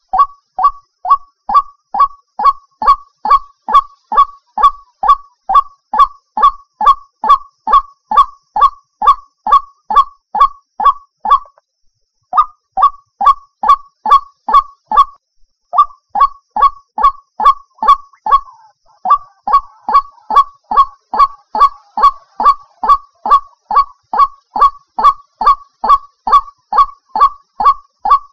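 White-breasted waterhen (ruak-ruak) calling: a steady run of short notes, two to three a second, each dropping in pitch, with two brief breaks around the middle.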